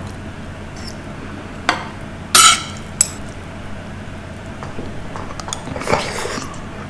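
Eating utensil clinking against a meal container: a few separate clinks, the loudest about two and a half seconds in, then a short busier clatter about six seconds in.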